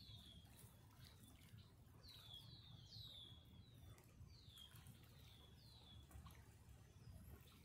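Faint high bird peeps: short falling notes, several in quick succession, repeating every second or two over a low background rumble.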